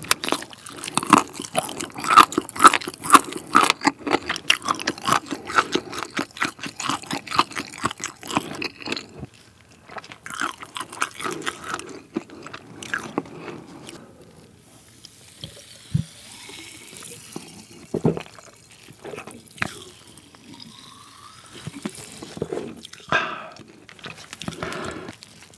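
Close-miked eating of a sauce-coated fried chicken leg: crisp crunching bites and chewing, dense for about the first nine seconds, then sparser and quieter chewing.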